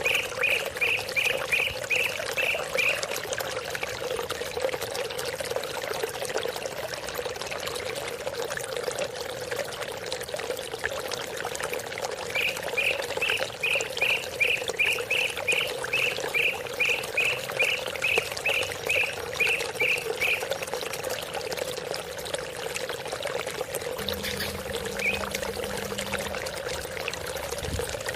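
A songbird calling in two runs of short repeated chirps, about two or three a second, over a steady pour of running water and a constant drone.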